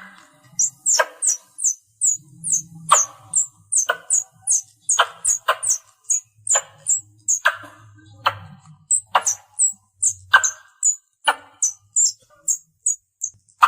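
A squirrel calling: a quick series of short, high-pitched chirps, several a second, broken about once a second by a louder, harsher click. It is the kind of call used to lure other squirrels in.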